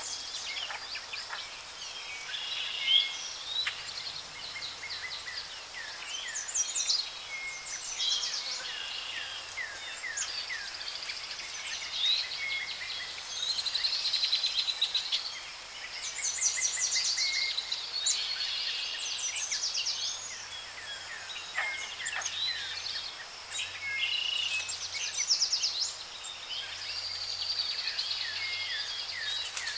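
Jungle ambience: many birds calling and chirping at once, with quick rising and falling whistles and trills, over a steady background of insect hiss.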